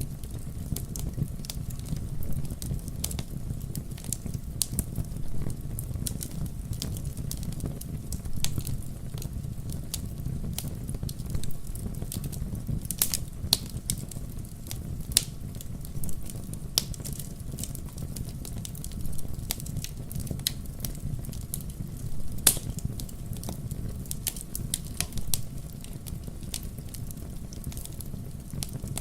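Wood fire burning in a fireplace: a steady low rumble of flames with irregular sharp crackles and pops, two louder pops about 13 and 22 seconds in.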